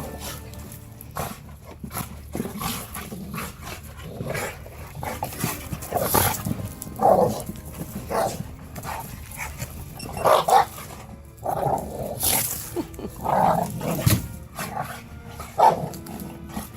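An Alaskan malamute and a pit bull play-fighting, giving irregular short barks and vocal bursts throughout, loudest in the second half.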